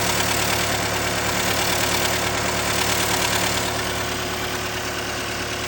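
Cat 299D2 skid steer's diesel engine running at raised throttle, with a rapid ticking from exhaust leaking at a cracked exhaust manifold. The sound eases slightly about four seconds in.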